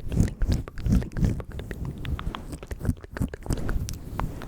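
ASMR mouth sounds very close to the microphone: quick wet clicks and smacks of tongue and lips, several a second, with soft low thuds among them.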